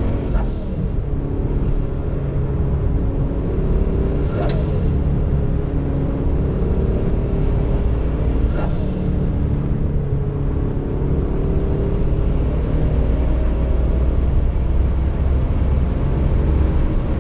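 Turbocharged Chevrolet Camaro SS V8 at full throttle, heard from inside the cabin. The revs climb in long pulls through the gears, with a gear change about four and a half and eight and a half seconds in, and another at the very end.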